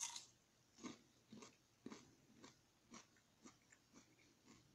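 A bite into a whole potato, then close-up chewing at about two chews a second, each chew a short moist crunch. The bite at the start is the loudest sound, and the chews slowly grow fainter.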